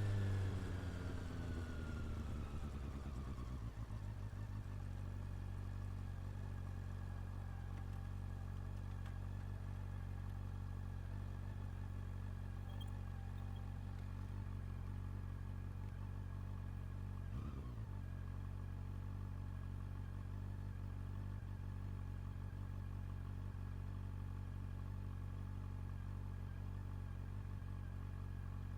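Honda CB400 Super Four's inline-four engine dropping in pitch as the bike slows over the first few seconds, then idling steadily. One short blip a little past halfway.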